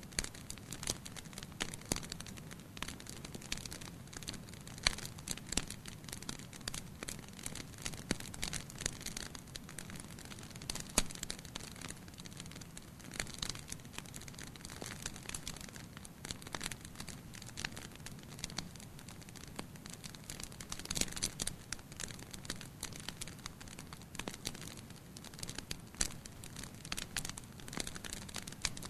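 Wood fire burning in a fireplace, crackling and popping irregularly over a steady low rush of flame.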